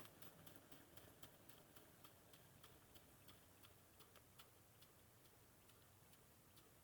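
Faint, quick ticking, several clicks a second, from a Jensen #35 live steam engine running at low steam pressure.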